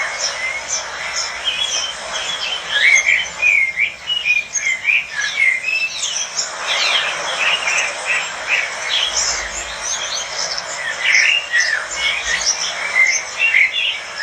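Many lovebirds chirping and chattering at once: a dense, continuous flock chatter of short, high chirps.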